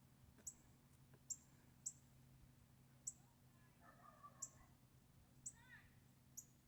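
Northern cardinal giving short, sharp, high chip calls, about seven of them, spaced half a second to just over a second apart. A faint lower twittering from another bird comes about two-thirds of the way through.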